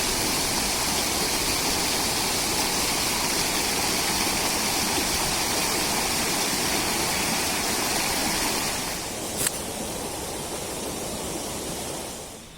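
Small waterfall and its stream rushing steadily. A little quieter from about nine seconds in, with one sharp click, then fading out near the end.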